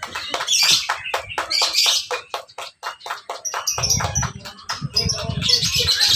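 Lovebird singing in a rapid run of sharp, high chirps, breaking into a continuous high trill near the end. A low rumble comes in about two-thirds of the way through.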